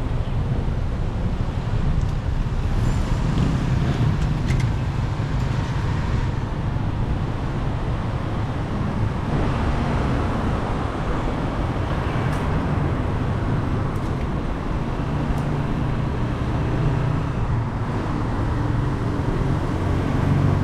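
Steady street traffic noise heard on the move, with a continuous low rumble and no distinct events standing out.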